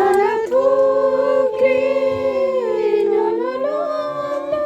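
Voices singing a church hymn together, holding long notes in harmony that change pitch a few times.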